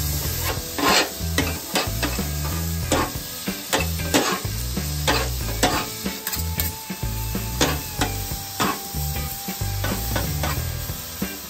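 Two metal spatulas clacking and scraping on a hot steel flat-top griddle, about once a second, as they chop and toss sliced ribeye with peppers and onions. Under them runs a steady sizzle of the meat and vegetables frying.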